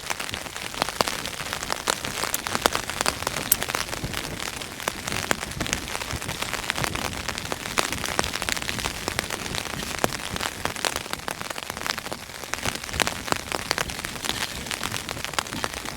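Heavy rain falling on a Hilleberg tent, heard from inside: a dense, steady patter of drops on the fabric with sharper single drop hits scattered through it.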